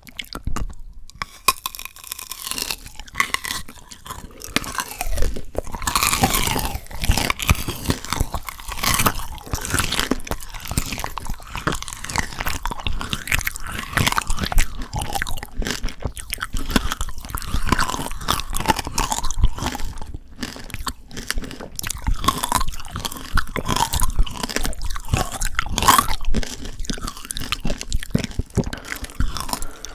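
Close-miked crunching and chewing of frozen shine muscat tanghulu: the hard sugar shell and the icy grapes crack between the teeth in a dense, irregular run of crisp crunches, with a brief pause about twenty seconds in.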